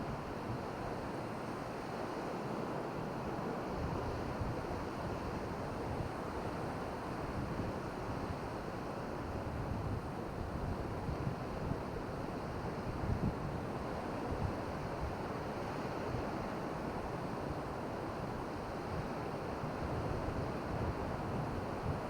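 Surf washing steadily on a beach, with wind gusting against the microphone in low rumbles.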